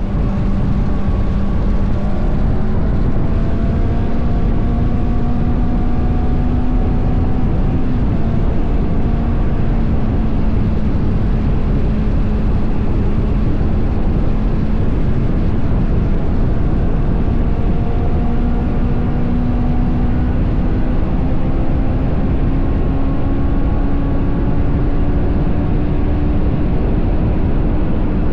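Honda CBR500R's parallel-twin engine running under way, its pitch rising slowly with a brief step about eight seconds in, under heavy wind noise on the action camera.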